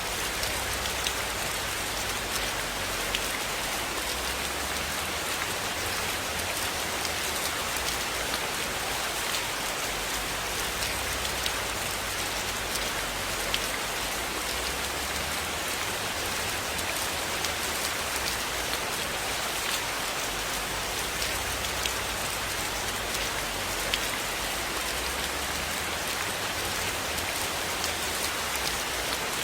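Steady, even rain falling on a surface, with scattered small sharp ticks of individual drops and a low wavering rumble underneath.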